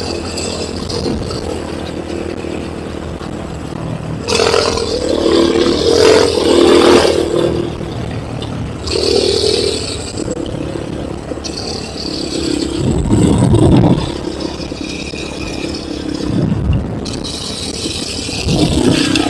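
Enduro motorcycle engine running and repeatedly revving up as it rides off-road, with rattling. The louder bursts come about four seconds in, around nine seconds, around thirteen seconds and again near the end.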